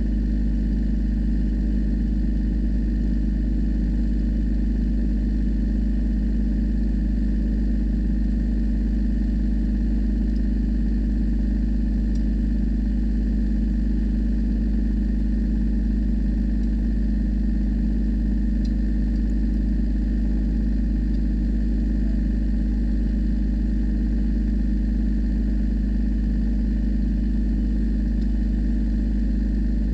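Tractor engine idling steadily, with an even low hum that doesn't change in speed.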